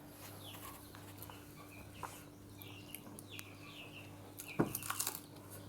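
Faint short bird calls, such as clucks or chirps, repeating in the background over a low steady hum, with a few soft clicks, the clearest just before the end.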